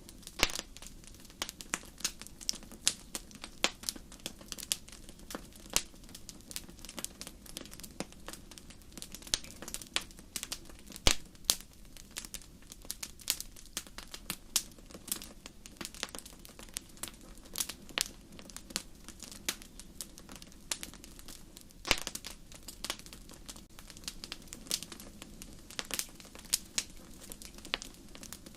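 Wood fire crackling in a fireplace: irregular sharp pops and snaps over a low steady background, with one louder pop about eleven seconds in.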